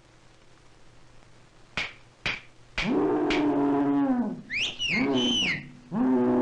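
Animal-like calls on an early sound-cartoon soundtrack: three sharp knocks, then a low held bellow that sags at its end, high squealing glides that rise and fall, and another low held bellow near the end.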